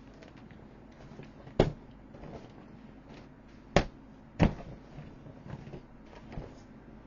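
Three sharp knocks, about a second and a half in, near the middle and just after, with light clicking and handling noises between them.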